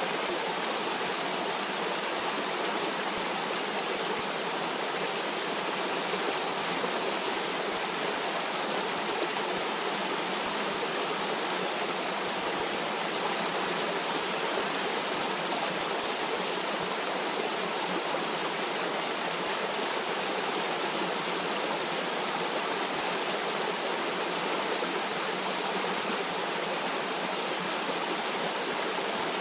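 Stream water running steadily, an even rushing hiss with no changes.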